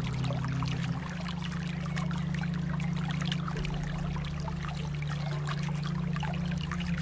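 Flowing water with many small trickling splashes, steady throughout, over a steady low hum.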